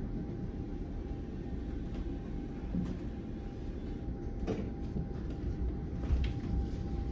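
Steady low rumble inside a moving NJ Transit Comet V passenger coach, with a faint steady hum and a few short clanks from the car body, the loudest about six seconds in.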